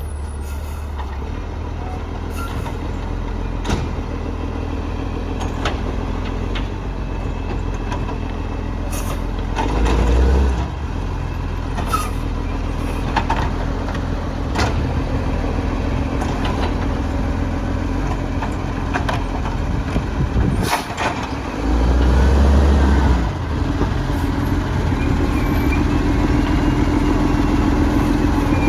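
Garbage truck engine running steadily, swelling louder in the low end briefly about ten seconds in and again for about a second and a half around twenty-two seconds. Sharp knocks and clunks sound now and then.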